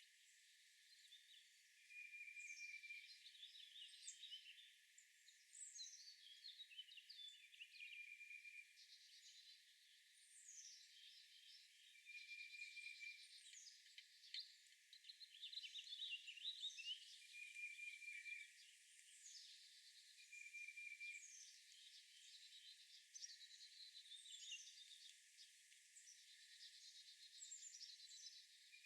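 Faint chorus of songbirds singing and calling, with many quick falling whistled notes and chirps overlapping, and one short low trill repeated several times.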